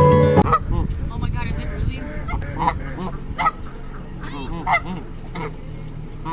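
A flock of geese honking: many short, repeated calls overlapping irregularly, some louder and closer than others.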